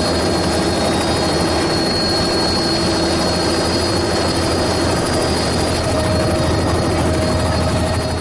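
Helicopter running steadily, its engine and rotor noise loud and unchanging.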